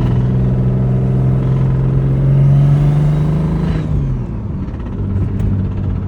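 Built BMW N54 inline-six engine running, its pitch steady then edging up before dropping about four seconds in and settling to a steady lower note.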